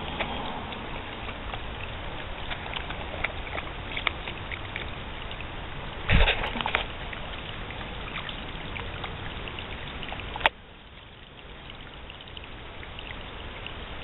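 Rain falling with scattered drips. A brief loud thump comes about six seconds in, and a sharp click a little after ten seconds, after which the rain sounds quieter.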